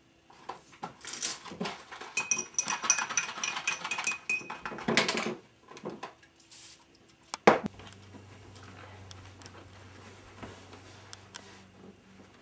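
Glasses and kitchenware clinking and clattering on a counter as a drink is made, with a thin glassy ringing for a second or two midway. A single sharp knock about seven and a half seconds in, then a low steady hum.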